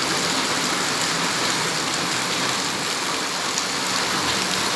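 Heavy rain pouring down, a steady hiss with no let-up.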